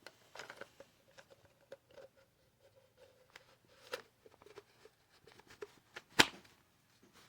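Small handling noises: scattered light clicks and rustles, with one sharp, loud click about six seconds in.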